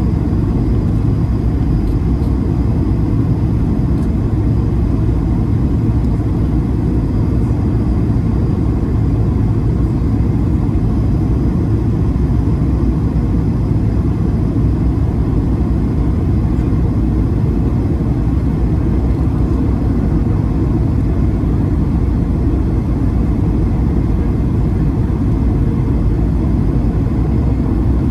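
Steady low rumble of an Airbus A220-300's Pratt & Whitney geared turbofan engines and cabin noise, heard from inside the passenger cabin, running evenly throughout.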